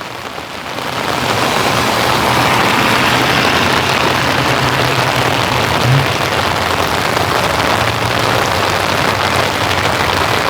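Steady rain falling and pattering on surfaces, swelling louder about a second in and then holding even, with a faint low hum underneath.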